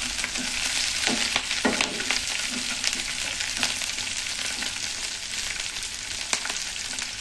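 Halved green chillies and crushed garlic sizzling in hot oil in a non-stick frying pan: a steady crackling hiss with scattered pops. A wooden spatula stirs them during the first few seconds.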